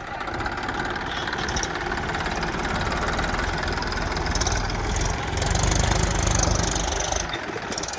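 Diesel tractor engine running steadily, growing louder for a couple of seconds about five seconds in, as if put under load or revved.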